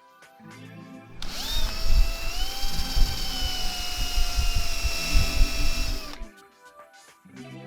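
Electric power tool motor spinning up about a second in and running for about five seconds, a steady whine that sags slightly under a rough grinding rumble, then stopping abruptly. Soft background music plays before and after.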